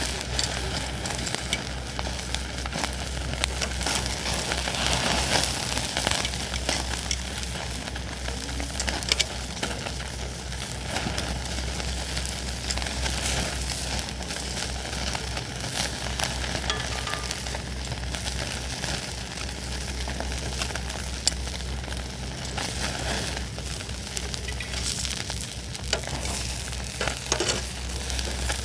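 Wood campfire burning with a steady sizzling hiss and scattered small crackling pops throughout.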